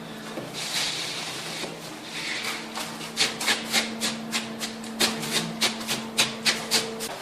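Rhythmic scraping strokes, about three to four a second, with a longer spell of continuous rubbing about a second in; a steady low hum runs underneath.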